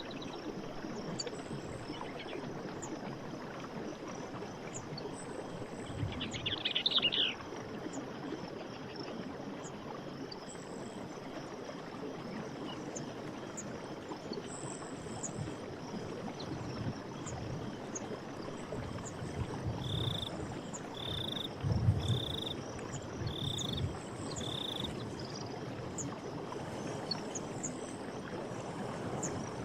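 Night forest ambience: a steady rushing background with faint high insect chirps. A pulsed frog croak comes about six seconds in, and a run of five short, evenly spaced high calls comes past the middle.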